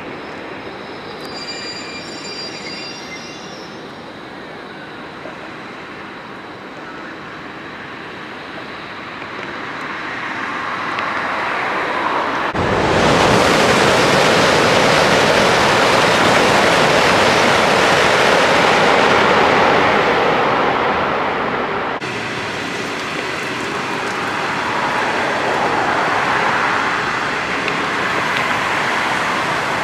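Passenger train on the Beijing–Guangzhou railway passing close by. The rolling noise builds, turns sharply louder about twelve seconds in and stays loud for about ten seconds, then eases back but keeps going.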